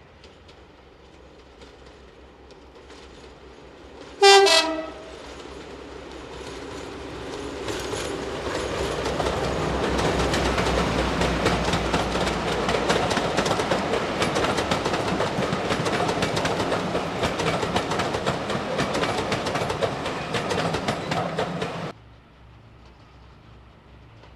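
A diesel locomotive gives one short horn blast. A diesel-hauled train then draws near and runs past, its engine running and wheels clicking over the rail joints. The sound cuts off suddenly near the end.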